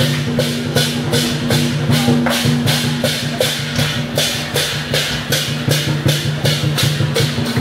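Dragon-dance percussion, drums and cymbals, beating a steady rhythm of about three strokes a second over a sustained low tone.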